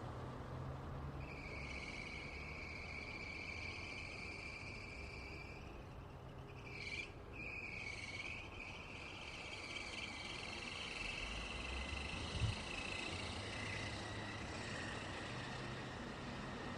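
Distant traffic ambience: a low, steady rumble of passing vehicles, overlaid by a high, steady tone that holds for several seconds, breaks briefly with a bend in pitch near the middle, then returns. A single short low thump comes about twelve seconds in.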